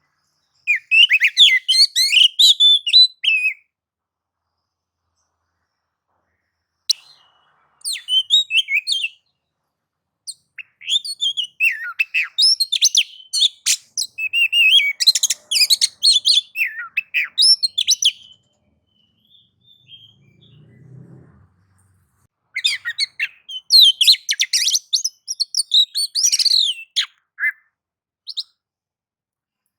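Oriental magpie-robin (kacer) singing in fast, varied bouts of chirps, whistles and trills, four bursts separated by short pauses. This is the bird's excited, combative song used as a lure to set other magpie-robins singing.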